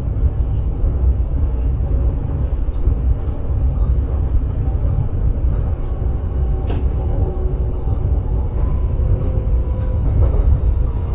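Steady low rumble of a sprinter commuter train running, heard from inside the driver's cab, with a couple of sharp clicks and a faint humming tone coming in about eight seconds in.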